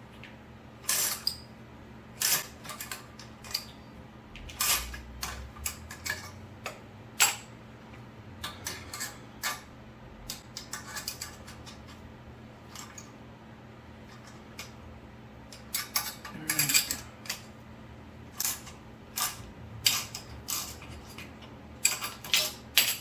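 Steel hand tools and suspension hardware clinking and clanking irregularly as they are handled and fitted, with a denser run of clanks a little past halfway and again near the end, over a steady low hum.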